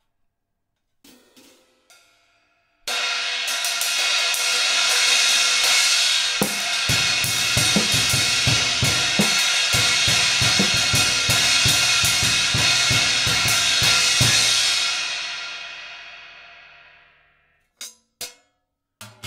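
A 20-inch paper-thin B8 bronze trash cymbal is struck with a sudden loud crash and kept washing for about twelve seconds. Drum-kit beats join underneath partway through. The cymbal then rings out and fades over a few seconds, and a few short drum hits follow near the end.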